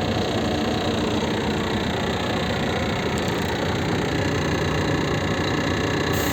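Scania G 380 truck's diesel engine running steadily at a constant speed.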